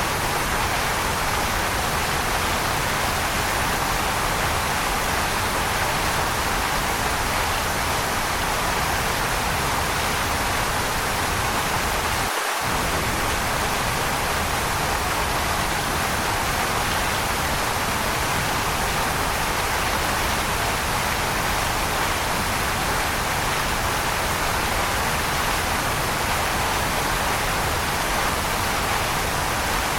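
Waterfall: a steady, unbroken rush of falling water, with a brief dip in the low rumble about twelve seconds in.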